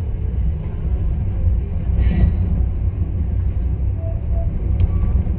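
Passenger train rolling along, heard from aboard: a steady low rumble of the wheels on the rails, with a brief high-pitched wheel squeal about two seconds in.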